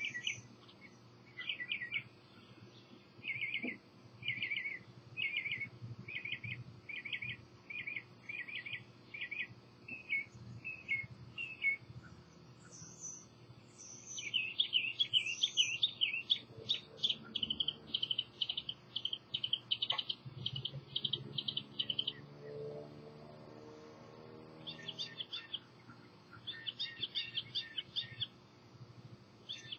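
Songbirds singing: a slow, even series of short repeated notes, then from about halfway a louder, faster run of rapid notes, with short bursts again near the end.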